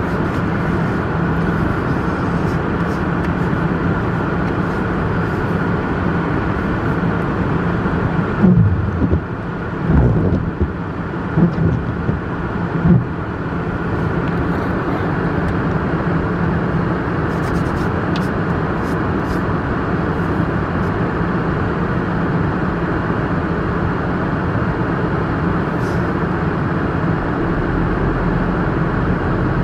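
Steady car cabin noise while driving: engine and tyre noise on a snowy road. A few brief, louder low sounds with a bending pitch come about eight to thirteen seconds in.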